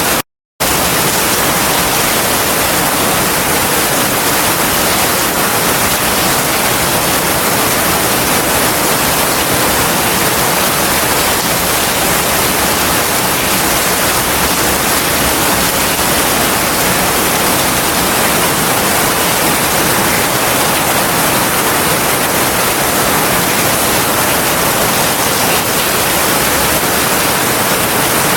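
Heavy rain falling in a steady, dense hiss, with no thunder. The sound cuts out completely for about half a second just after the start, then resumes unchanged.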